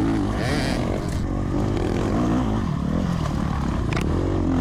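Several off-road dirt-bike engines revving at once, their pitches overlapping and rising and falling.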